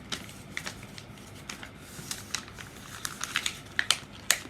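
Paper being folded and creased by hand: a run of short, uneven crinkles and taps, the sharpest two near the end.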